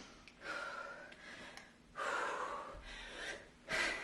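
A woman breathing hard from exertion: about three heavy, gasping breaths.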